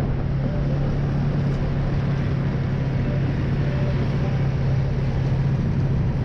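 ATV engine running steadily while riding, with a constant low hum and an even rushing noise.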